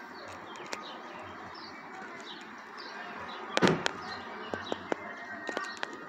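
Small birds chirping over a steady background hiss, with one sharp crack about three and a half seconds in and a few lighter clicks near the end.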